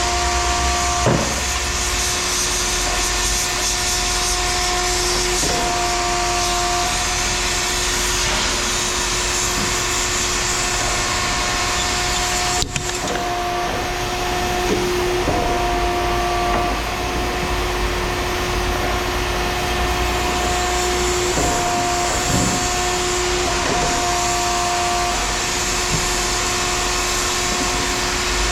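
Loud, steady machinery noise with a whine that comes and goes every few seconds, and a few brief knocks.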